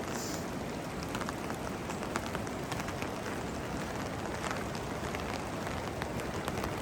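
Steady rushing of water, with scattered faint ticks through it.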